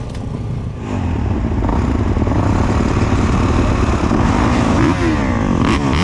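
Several motocross bikes revving hard and accelerating together, including the rider's own Yamaha YZ250F four-stroke; the sound gets louder about a second in, with several engine pitches climbing and falling across one another.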